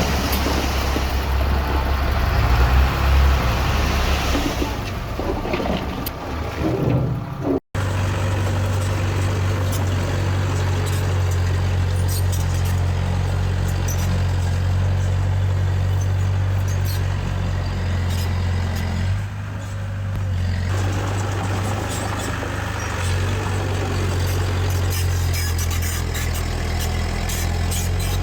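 Diesel engine of heavy earthmoving machinery running steadily with a low hum. About eight seconds in the sound cuts off abruptly and resumes with a steadier hum. Before the break there is more rushing, grinding noise over the engine.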